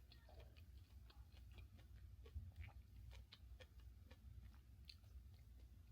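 Near silence: room tone with a steady low hum and a scatter of faint, irregular small clicks.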